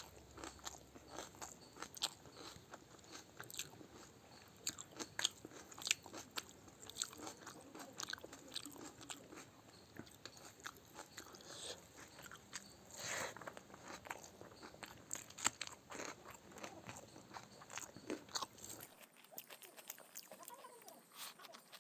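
Close-miked eating sounds: a person biting, crunching and chewing food, with many sharp, irregular crunches a few times a second.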